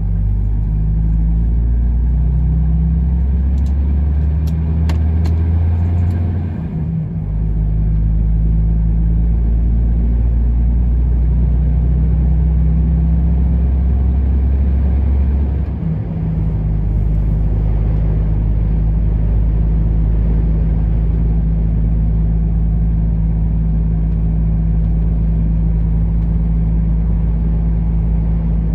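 Truck engine running under way with road noise: a steady low drone whose pitch shifts twice, about seven and about sixteen seconds in, with a few faint clicks around five seconds in.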